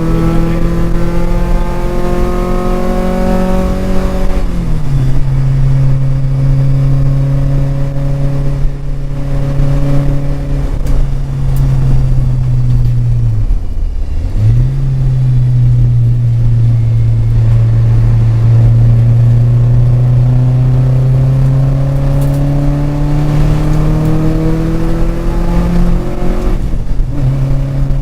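Porsche 944's four-cylinder engine pulling under load, its pitch climbing steadily. Its note drops with an upshift about four seconds in, dips briefly and picks up again about halfway through, and drops with another shift near the end, over steady road and wind noise.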